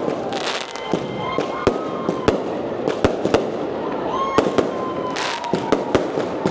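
Lunar New Year firecrackers and fireworks going off: a loud, irregular run of sharp bangs, roughly two a second, with short bursts of hiss between them.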